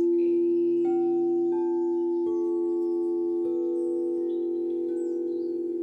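Singing bowls ringing with long, steady, overlapping tones. Light strikes add higher tones about 1, 1.5, 2.3 and 3.5 seconds in. The sound fades slowly, with a wavering beat near the end.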